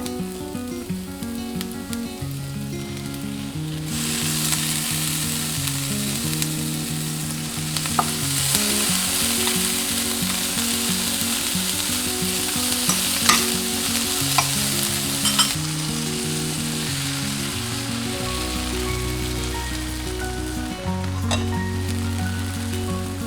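Food frying in hot oil in a pan: a loud sizzle from about four seconds in to about fifteen seconds, with a few sharp taps or scrapes of a utensil, most likely bánh xèo (Vietnamese crispy pancake) batter cooking. Background music plays throughout.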